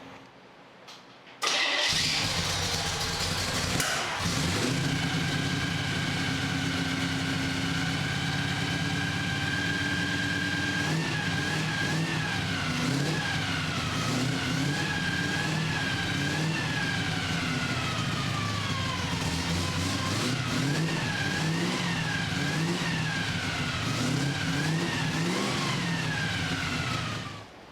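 Carbureted 327 small-block Chevy V8 fires up about a second and a half in and idles steadily. From about the middle it is revved up and down in repeated throttle blips, with one slower rise and fall. It stops shortly before the end.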